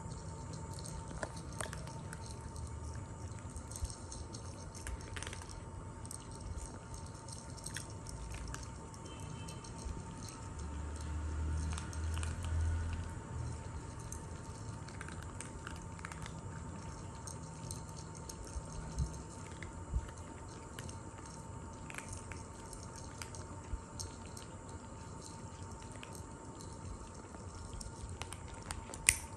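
Kittens eating, with soft chewing and scattered small clicks of teeth on food, over a steady hum.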